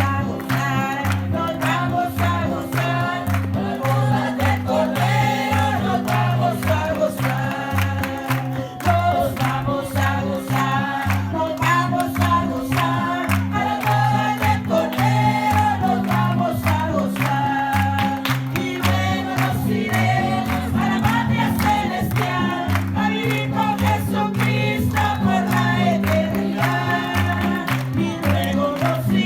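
Choir singing revival worship choruses over instrumental backing, with a bass line alternating between notes and a steady beat.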